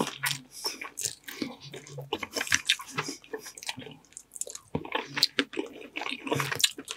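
Close-miked wet chewing and lip smacking of saucy seafood-boil crab meat, with sucking of sauce-covered fingers: a string of quick, sticky clicks and smacks.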